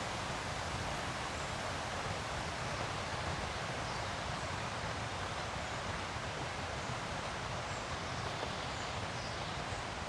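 Steady rush of river water over rapids, with a few faint, high bird chirps.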